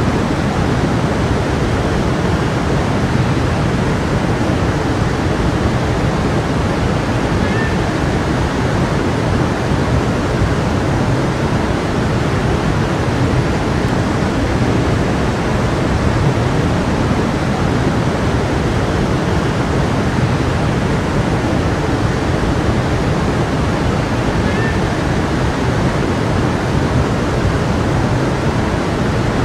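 A stream flowing steadily: a dense, even rush of running water.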